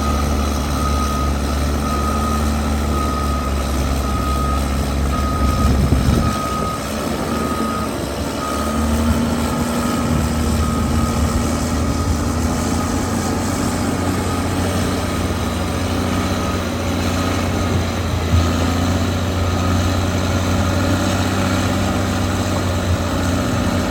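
Cat D6R2 bulldozer's diesel engine running, with its reversing alarm beeping steadily for the first several seconds before fading out. The engine drops briefly about six seconds in, then picks up again.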